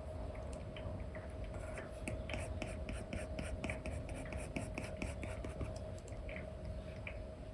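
Apple Pencil 2 with an Elecom nib scratching and tapping on a paper-like screen protector on an iPad, in quick short strokes several times a second, over a faint steady hum.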